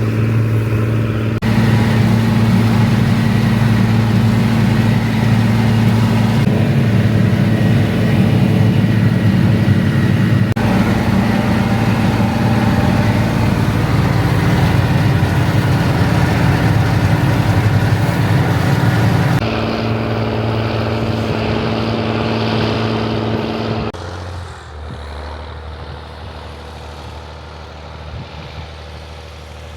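Diesel engine of a Rába 250 tractor running steadily with a deep, even note. It drops in level about 19 seconds in, then again about 24 seconds in, settling to a lower, quieter steady note.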